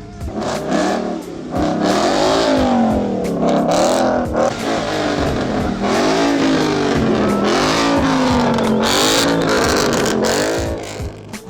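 A car engine being revved over and over, its pitch rising and falling every second or two, then dropping away near the end.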